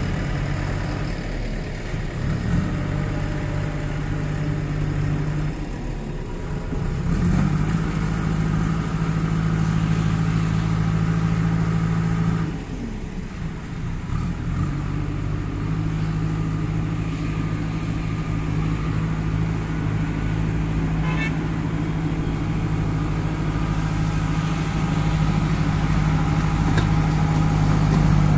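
Kirloskar diesel engine of a JCB 2DX backhoe loader running steadily. It picks up a little about seven seconds in, drops back briefly around twelve to fifteen seconds, then runs evenly again.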